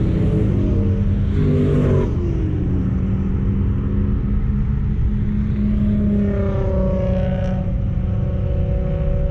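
Turbocharged 1.8-litre four-cylinder engine of a 1999 Mazda Miata running hard on a race track. Its pitch drops with a brief hiss about two seconds in, then climbs again from about six seconds in.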